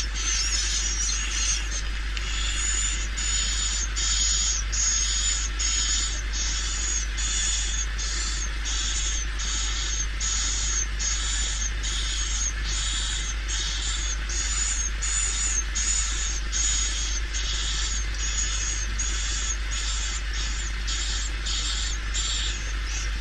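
Swiftlet lure call played back for a swiftlet house: a rapid chirping twitter repeated evenly, about one and a half calls a second, over a steady low hum.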